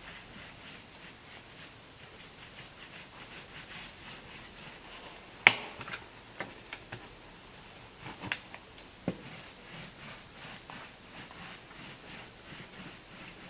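Foam roller rolling varnish over a wooden boat transom: a faint, rapid rhythmic rubbing, broken near the middle by a handful of sharp clicks and knocks, the first the loudest.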